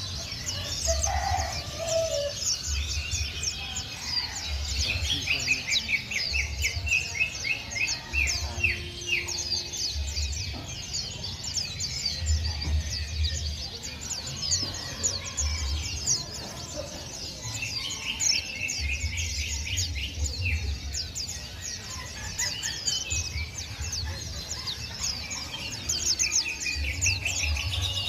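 A group of kemade songbirds chirping and trilling together, a dense continuous chorus of rapid, high, sweeping chirps with bursts of trills. A low rumble comes and goes underneath.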